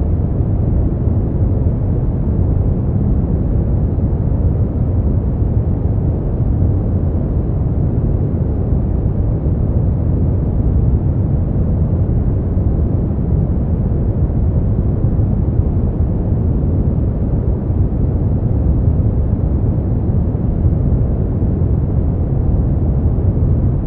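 Steady, unchanging noise generated as a sleep aid, deep in tone with most of its weight in the bass and little high end.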